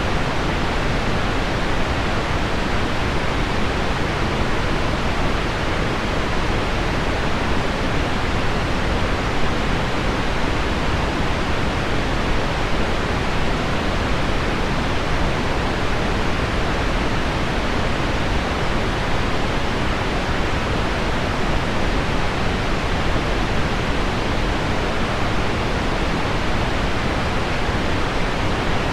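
Heavy rain on window glass blended with pink noise, making a steady, even hiss that does not change.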